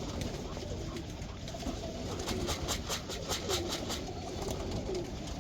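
Domestic pigeons cooing in low, gliding calls, with a quick run of about ten sharp clicks in the middle.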